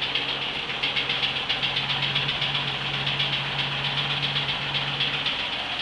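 Chevrolet 250 straight-six engine idling with a steady, regular knock running through it. The owner hopes the knock is in the top end.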